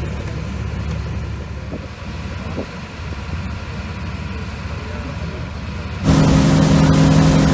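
Boat engine running steadily with a low hum; about six seconds in it abruptly becomes much louder, a stronger engine sound with added water and wind noise.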